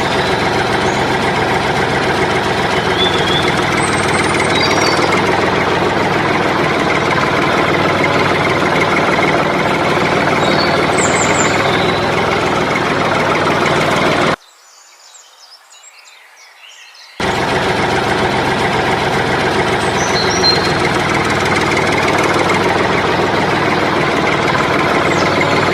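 An engine idling steadily with a knocking, rumbling texture. It cuts out abruptly for about three seconds past the middle, then resumes at the same level.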